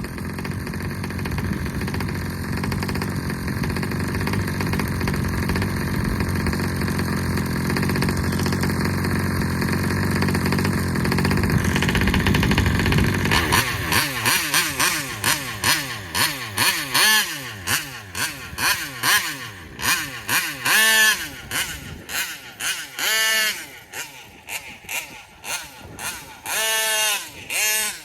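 Taylor 35 two-stroke engine on an RC car, running on its stock 1107 carburetor: a steady loud run for about the first half, then a series of short revs, each rising and falling in pitch, with brief dips between them.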